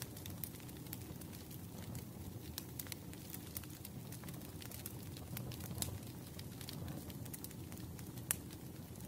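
Wood fire crackling in a fireplace: irregular small pops and snaps over a low steady rumble of the flames, with one sharper pop near the end.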